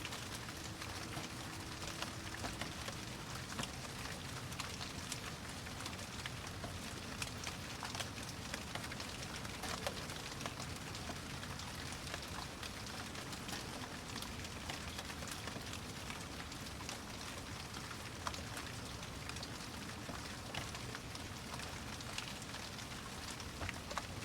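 Steady rain falling, with many separate drops pattering on a surface over a constant hiss.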